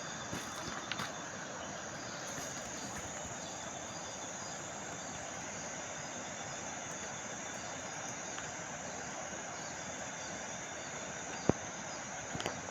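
Insects chirring steadily over an even background hiss, with a single sharp click near the end.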